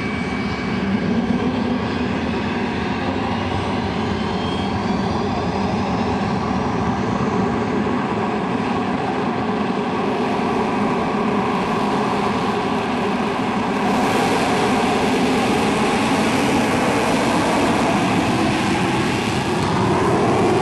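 English Electric Canberra's twin Rolls-Royce Avon turbojets running, a steady jet noise with a faint whine, growing louder about fourteen seconds in.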